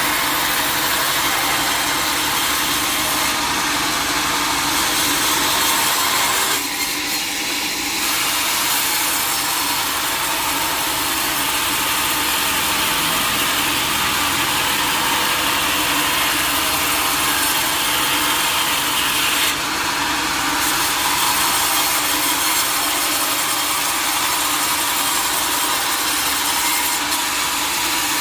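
Sawmill saw blade cutting through a teak log: a steady, loud, hissing sawing noise, with brief shifts in tone around seven and twenty seconds in.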